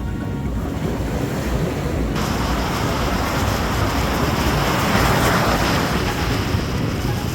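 Ocean surf breaking and washing up a sandy beach, with strong wind buffeting the microphone in a low rumble. The hiss of a wave comes in suddenly about two seconds in, swells, then eases near the end.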